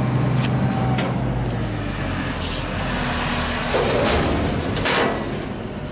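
Diesel engine of farm machinery running steadily, with a rushing hiss that swells from about two seconds in and dies away about five seconds in.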